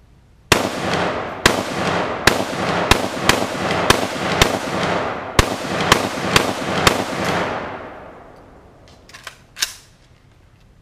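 AK-47 rifle firing a string of about eleven semi-automatic shots at an uneven pace, roughly one to two a second, each shot ringing out with a long echo that dies away after the last one.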